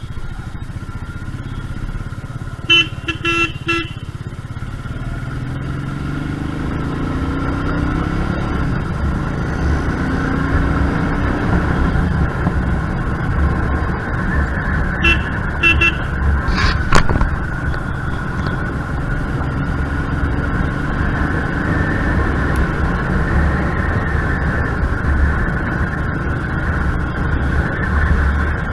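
Royal Enfield Meteor 350's single-cylinder engine pulling on the road, its pitch rising as it accelerates, with wind rumble. A horn toots in short beeps: about three a few seconds in and two more around the middle. A single sharp click follows just after the second toots.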